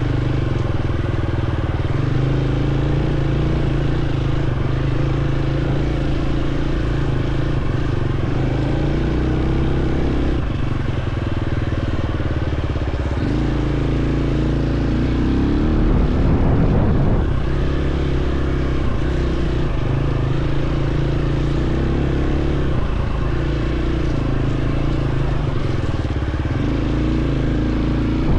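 Dirt bike engine running while riding, its pitch stepping up and down with throttle and gear changes, with a brief louder burst about two-thirds of the way in.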